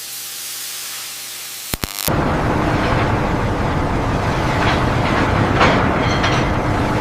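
A steady hiss, then two sharp clicks and an abrupt change about two seconds in to a loud, dense, rumbling industrial din, like heavy machinery in a shipyard, that holds steady.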